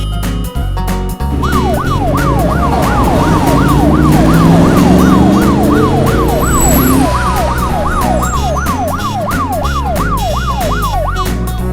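Emergency-vehicle siren in a fast rising-and-falling yelp, about three sweeps a second, over background music with a steady beat. Lower tones climb in pitch beneath it midway through.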